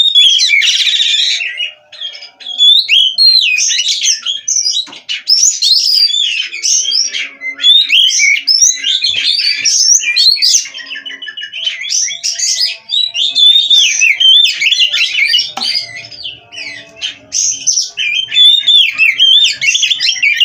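Oriental magpie-robin (kacer) singing without a break: a loud, varied stream of quick whistled phrases, slurs and trills.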